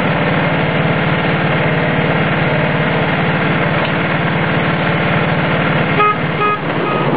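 Miniature ride-on train's locomotive running with a steady drone, then three short horn toots in quick succession about six seconds in.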